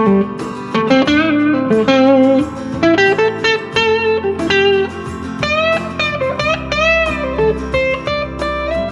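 Electric guitar with single-coil pickups (a Squier Jaguar) played through a JHS NotaKlon overdrive at low gain into a Vox AC10 amp, giving a fairly clean, lightly driven tone. A single-note lead line with several string bends past the middle, over a backing track.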